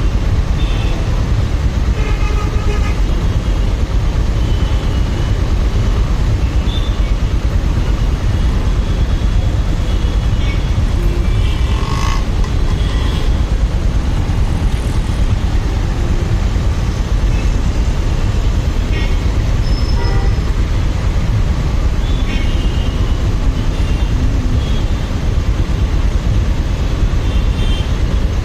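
Motorcycle ride through city traffic: a steady low rumble of wind and engine on the rider's microphone, with short horn toots from traffic here and there.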